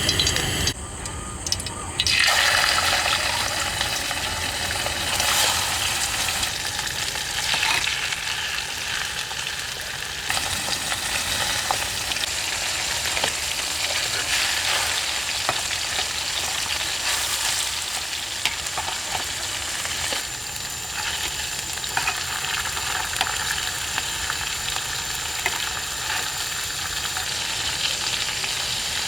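Food sizzling as it fries in a pan, a steady hiss with small clicks from stirring. It drops briefly about a second in, then comes back loud.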